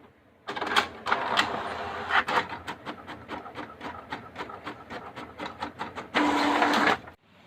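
An electric power tool running and working wood, with a steady motor tone and regular knocks about four a second. A louder spell near the end stops abruptly.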